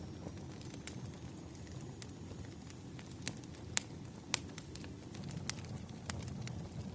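Campfire crackling: a steady low rumble of burning wood with irregular sharp pops and snaps, the loudest a little before the middle.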